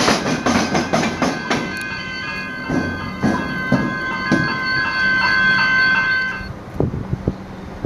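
Train wheels clattering over the tram-and-rail level crossing in a run of clacks that spread further apart, with a steady high whine that stops about six and a half seconds in.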